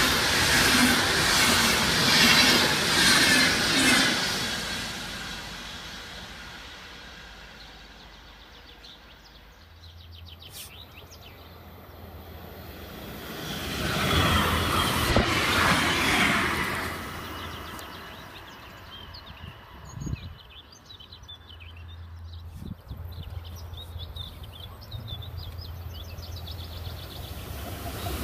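Electric passenger trains passing on the line. First the tail of an intercity train's coaches rolls past and fades away; about halfway through, a red regional electric multiple unit swells up and passes before dying down; near the end the next train's noise begins to rise.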